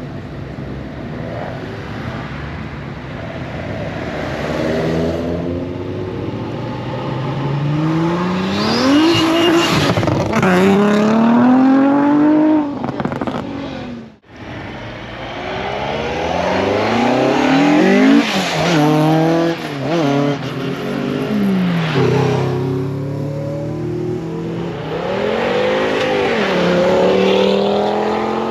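Classic cars driving away one after another, their engines revving up and easing off so that the pitch climbs and falls over and over. There is a sudden brief break about halfway through.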